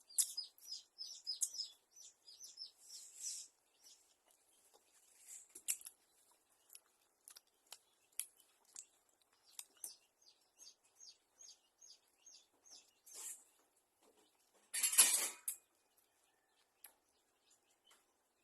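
A small bird chirping, first in a quick run of high notes, then in single notes about twice a second, among scattered light clicks. A short, loud rustle comes about 15 seconds in.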